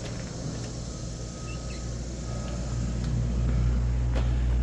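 Dump truck's diesel engine running with a steady low hum, growing louder from about halfway through.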